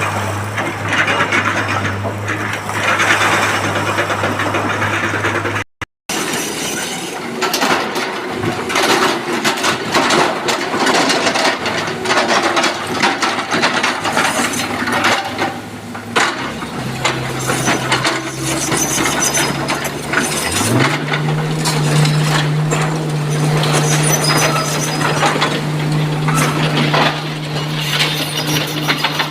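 Excavator's diesel engine running steadily while rocks clatter and scrape against the steel bucket. The engine note steps up in pitch twice over the second half as it revs higher under load, and there is a brief gap about six seconds in.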